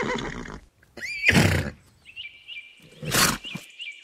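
Horse neighing and blowing in three loud bursts about a second apart, the middle one opening with a high, wavering squeal. Faint chirping comes in behind from about halfway.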